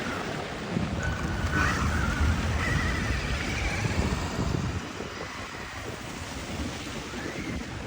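Wind buffeting the microphone in a snowstorm, gusty and rumbling, easing off about five seconds in. A faint high whine rises and falls over it in the first half.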